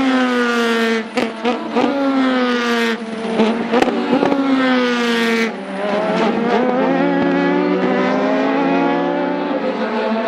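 Race car engine with its pitch falling for several seconds, broken by sharp exhaust pops and cracks. Then, about halfway through, it accelerates again with the pitch rising.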